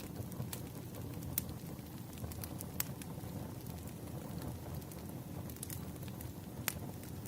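Wood fire crackling: scattered sharp pops and snaps over a steady low rumble of burning logs, with a few louder pops, one near the end.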